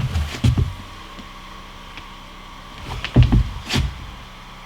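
Thumps and sharp knocks of boards and a tape measure being handled while a closet board is measured, in two brief clusters about three seconds apart.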